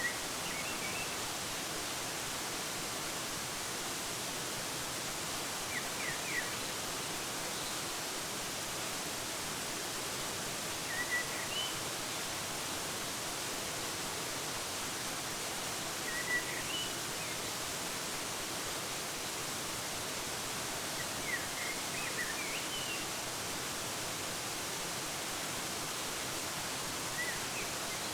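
Waterfall's steady rush of falling water, with a bird giving short chirps about every five seconds.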